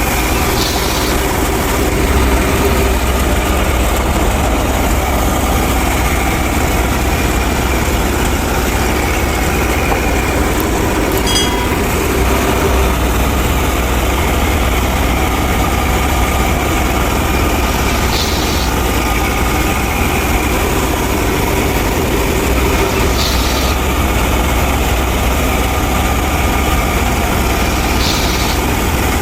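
Tractor engine running steadily with a deep, constant rumble, and a faint short rattle every few seconds.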